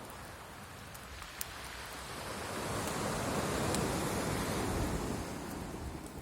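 Wood crackling in a burning bonfire, with a few sharp snaps over a rushing noise that swells for a couple of seconds and then fades.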